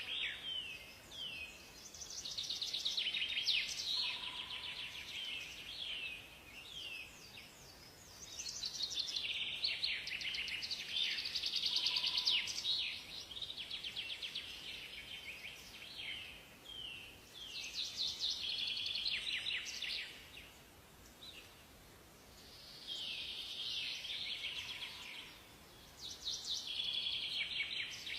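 Songbirds singing: high, rapid trills and chirps in overlapping phrases a few seconds long, with short pauses between, over a faint steady background hiss.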